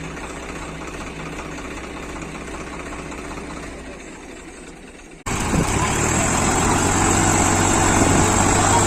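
Tractor engine running steadily, then about five seconds in it cuts abruptly to a louder engine sound with a steady high whine over it.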